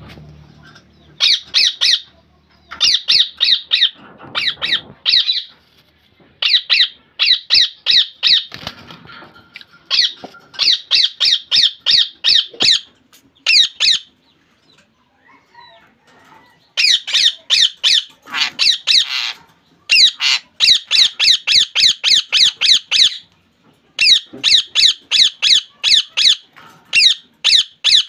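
Ringneck parakeet squawking: loud, shrill calls in rapid runs of several, about four a second, with a short pause about halfway through.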